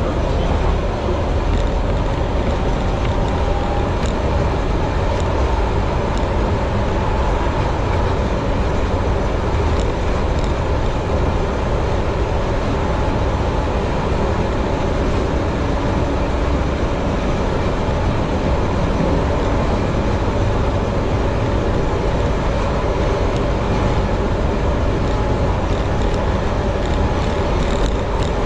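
Keihan Ishiyama-Sakamoto Line electric train running at steady speed, heard from inside the driver's cab: a continuous rumble of wheels on rail with a faint steady whine over it.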